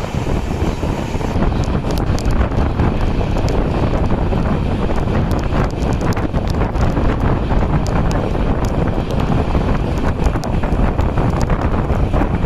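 Train running, its rumble heavily mixed with wind buffeting the microphone, with scattered sharp clicks throughout.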